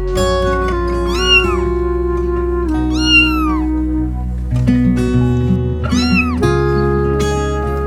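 Background music of steady sustained notes, with three cat meows over it, each one rising then falling in pitch, spaced about two to three seconds apart.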